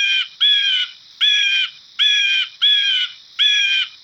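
Eagle calling: a run of harsh, evenly repeated cries, about two a second, each slightly falling at its end.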